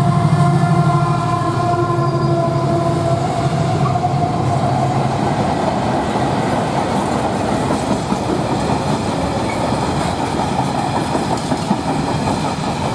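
Colas Rail Freight Class 70 diesel locomotive passing, its engine note dying away over the first few seconds, followed by the steady rumble and clatter of the train rolling over the rails.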